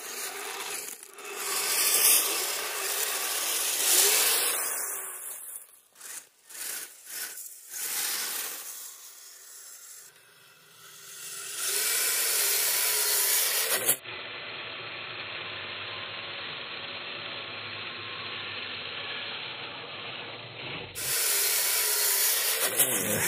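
Small electric RC vehicles driving over icy, crusty snow: motors running and tracks and tyres scraping and grinding on the frozen surface, swelling and dropping as they power along and slide.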